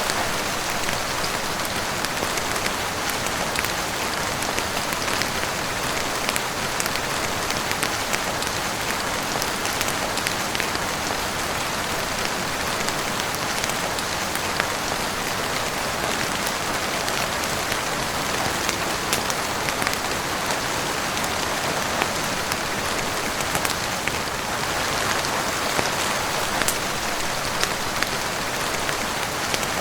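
Heavy rain falling steadily on a roof and windows: a dense, even hiss with scattered sharp ticks throughout.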